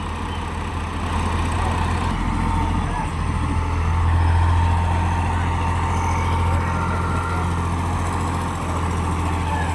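An engine or motor running steadily: a low drone with a thin, steady whine on top.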